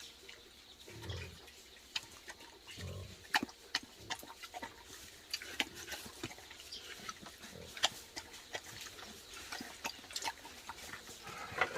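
Wild boars grunting a couple of times, followed by a run of frequent sharp clicks and snaps.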